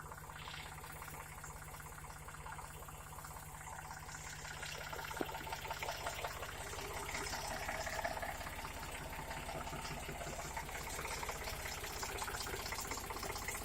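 Tractor engine running steadily, with a hiss above it that grows louder after about four seconds.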